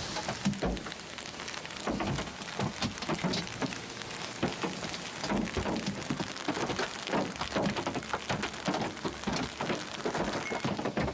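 Hail pelting a car: hailstones hit the body and glass in a dense, irregular run of sharp knocks over the hiss of the storm.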